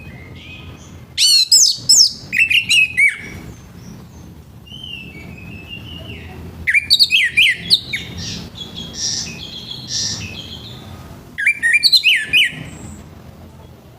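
Orange-headed thrush singing its full, rough-toned song ('ngeplong') in three loud bursts of fast, varied whistled phrases, about a second in, near the middle and near the end, with softer warbling between them.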